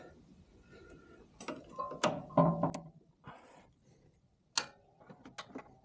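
Scattered metallic clicks and clinks of tools and parts being handled on an engine, a few with a short ring, the sharpest one about four and a half seconds in.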